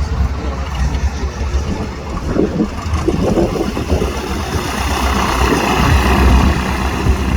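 Light propeller airplane engine running, its sound swelling in the second half.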